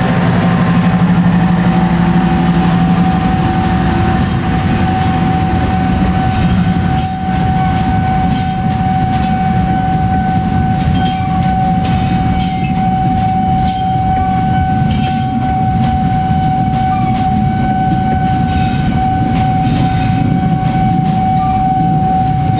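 Passenger train coaches rolling slowly past on curving track. A steady high-pitched squeal holds throughout over a low rumble of the wheels, and from about four seconds in there are scattered sharp clicks of wheels on the rails.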